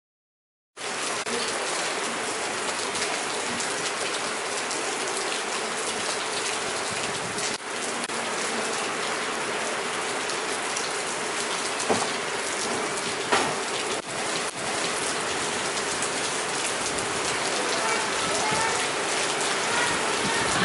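Steady hiss of falling water, like rain pattering on a surface, cutting in abruptly about a second in, with a few faint knocks.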